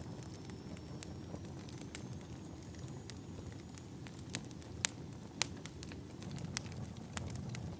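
Wood fire in a fireplace crackling, with irregular sharp pops over a steady low rumble of burning logs. The loudest pops come about five seconds in.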